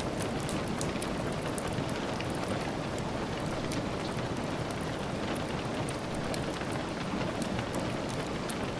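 Steady rain falling, an even hiss dotted with many small, sharp ticks.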